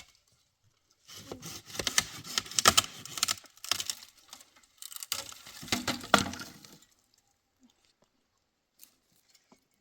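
Dense crackling and rustling, many small clicks and snaps in two spells of a few seconds each, then quiet.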